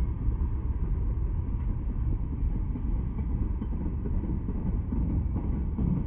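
Freight train of tank cars rolling past: a steady low rumble of steel wheels on the rails.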